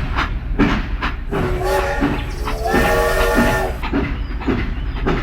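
Train running with a steady rhythmic clacking, and a horn sounding in the middle for about a second.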